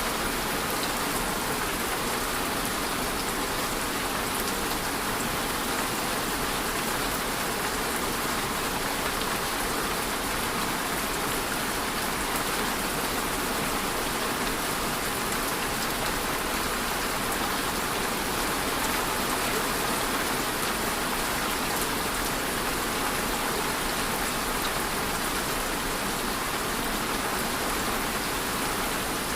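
Steady rainfall, a dense even hiss of many drops hitting a surface, with no change in strength.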